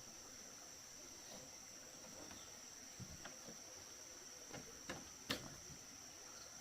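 Insects, crickets by their sound, trilling in a steady high-pitched drone, with a few light knocks or taps about three, five and five and a half seconds in.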